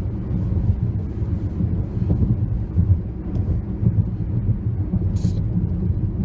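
Steady low rumble of a car on the move, heard from inside the cabin, with a brief hiss about five seconds in.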